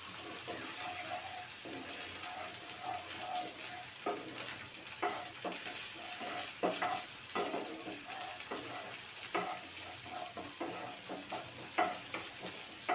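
Chopped onion, tomato and coriander sizzling in hot oil in a frying pan with a steady hiss, while a wooden spatula stirs them, scraping against the pan at irregular intervals.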